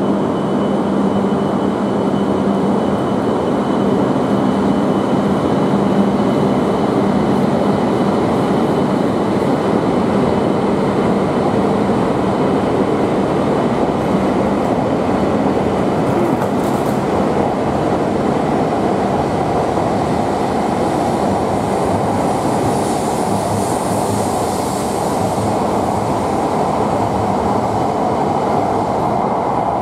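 Shinkansen train running along the station platform: a loud, steady rush of running noise with a low steady hum that fades out about two-thirds of the way through.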